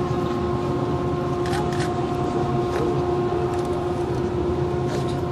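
A steady machine hum at one constant pitch over a low rumble, with a few short clicks in the middle and again near the end.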